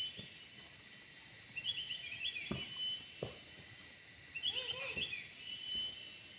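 A songbird singing three short phrases about two and a half seconds apart, each a quick run of chattering notes ending in a short steady whistle. A few faint knocks sound between the phrases.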